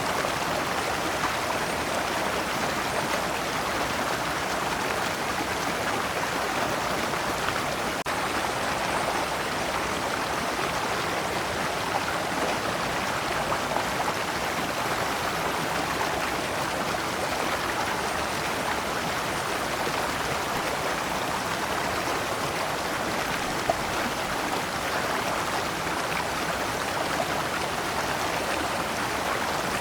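Shallow rocky stream flowing over and around large stones in small cascades, a steady, even rush of water.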